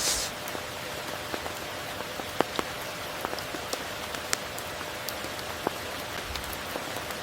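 Steady rain falling, with many distinct close drops ticking sharply through it and a few louder drips now and then.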